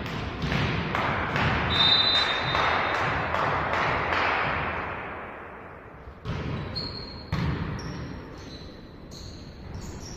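Volleyball rally sounds in a gym: the ball being struck and thudding, with sharp impacts throughout and a brief high whistle about two seconds in. In the second half, sneakers squeak in short chirps on the court floor between hits.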